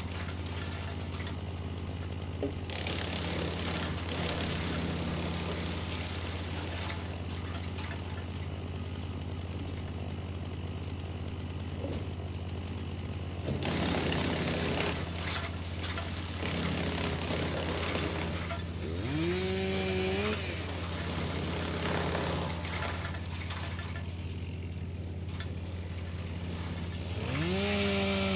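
Wood chipper running with a steady engine drone, broken by louder spells of rough chipping noise as wood goes through: a few seconds in, about halfway, and near the end. Twice a whine rises in pitch, once about two-thirds of the way in and again near the end.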